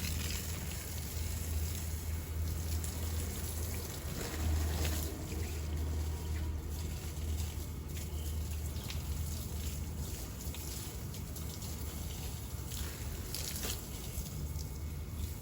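Water trickling steadily, with a low rumble underneath and a few faint ticks.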